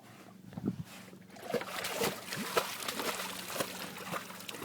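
Water sloshing and trickling around a swimming dog, with many small splashes and short dripping plinks that grow busier about a second and a half in.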